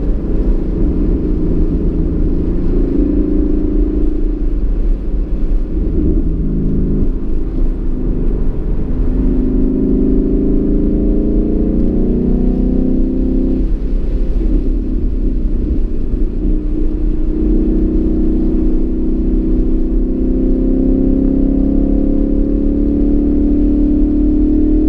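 2015 Mustang GT's 5.0-litre V8 under hard acceleration, its note climbing in long runs with a drop about halfway through, then climbing again over the last several seconds, over a steady low rumble.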